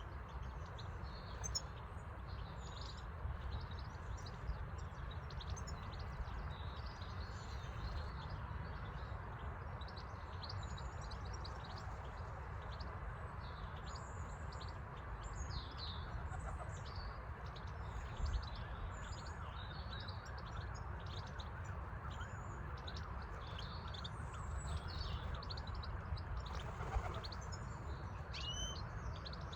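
Several songbirds chirping and singing, many short high calls overlapping throughout, over a steady low rumble.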